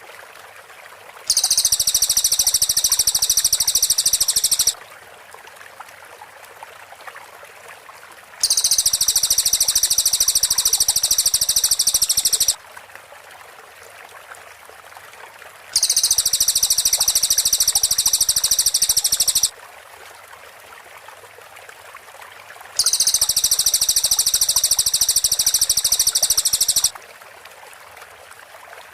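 Cililin bird giving a tight, rapid high-pitched trill, its typical close-set 'tembakan' call, in four bursts of about four seconds each, with a steady faint hiss between them.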